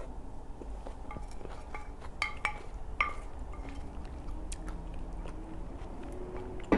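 A person chewing chewy rice cakes in cream sauce with wet mouth clicks and lip smacks, close to the microphone. A wooden spoon scrapes the ceramic plate, a cluster of sharper clicks comes about two to three seconds in, and one loud sharp click comes at the very end.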